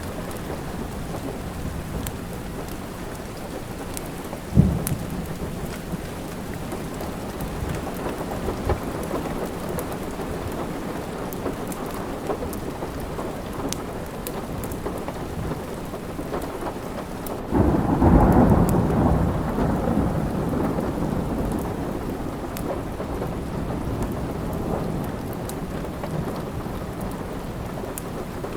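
Steady rain with a long rumble of thunder starting a little past the middle and slowly fading. There is a single sharp crack about four and a half seconds in, and small crackles from a wood fire are scattered throughout.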